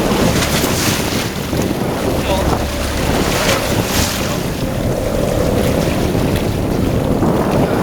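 Fishing boat under way at sea: a steady rush of wind buffeting the microphone over the sound of water and the boat's running, with a faint held tone for a moment about five seconds in.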